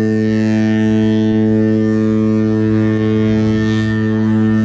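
Cruise ship's horn sounding one long, steady, deep blast on a single pitch.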